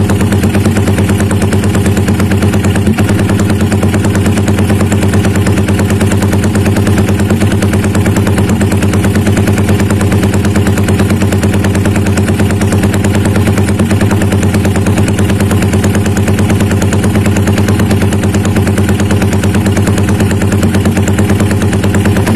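Yamaha Vixion's single-cylinder four-stroke engine idling steadily through a loud open racing exhaust, with a rapid choppy pulsing that is billed as a helicopter-like sound.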